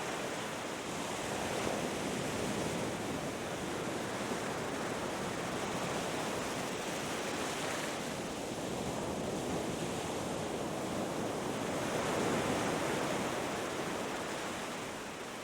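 Ocean surf breaking and washing up a beach: a continuous rushing that swells and eases as the waves come in, loudest about twelve seconds in.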